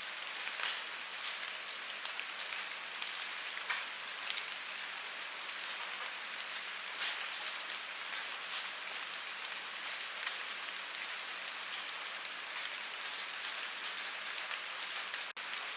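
Steady rain falling, a dense even hiss with scattered louder individual drops ticking through it; the sound cuts out for an instant near the end.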